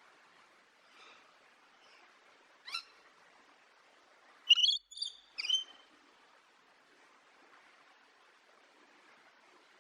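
A bird calling: two short calls in the first three seconds, then a burst of several loud, sharp chirps that bend in pitch about halfway through.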